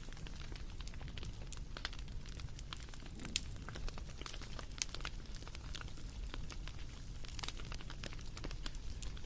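Wood fire crackling, with irregular sharp pops over a low steady rumble; a couple of louder pops a few seconds in.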